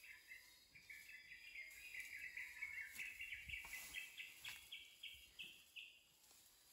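A bird calling faintly: a long run of short, evenly repeated notes that climb step by step in pitch, stopping near the end.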